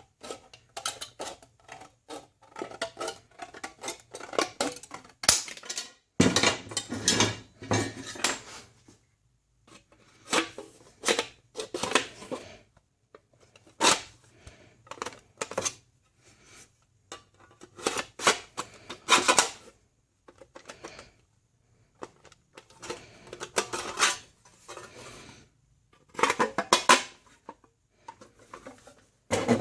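Sheet metal being cut and worked with hand tools, metal clicking and clattering in irregular bursts with short pauses between.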